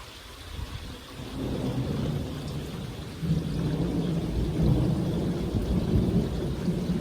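Storm with a low, fluctuating rumble that swells about a second in and grows louder about three seconds in.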